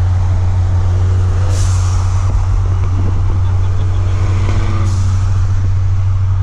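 Steady low drone of a car's engine and road noise while driving, heard from inside the cabin, with two brief hissing sounds about a second and a half in and again near five seconds.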